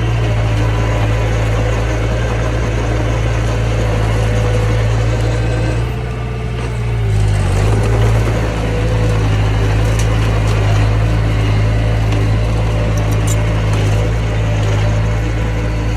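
Mini bulldozer's diesel engine running steadily under load. Its note sags and recovers about six seconds in.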